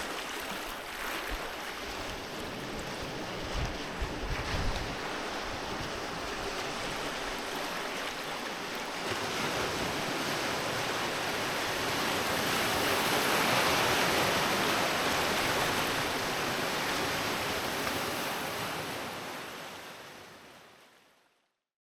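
Sea waves breaking and washing onto a beach, a wave swelling to its loudest about two-thirds of the way through. A few low bumps of wind on the microphone come about four seconds in, and the sound fades out at the very end.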